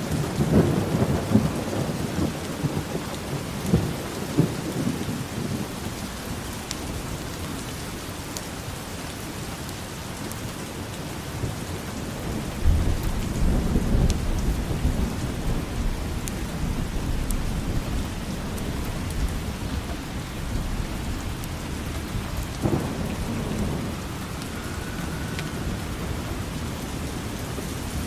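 Steady rain falling, with rolls of thunder: a low rumble near the start, another beginning about halfway through, and a shorter one near the end.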